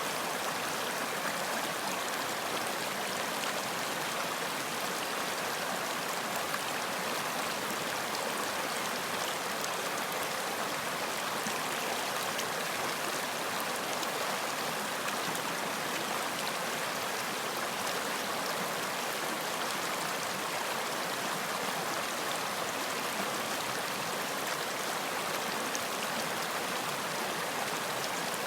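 Running water: a stream flowing steadily, an even rushing sound without pauses or changes.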